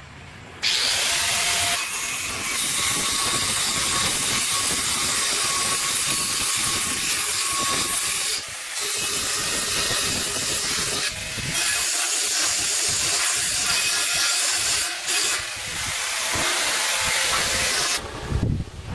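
A loud, steady hiss, broken by a few brief pauses and stopping near the end.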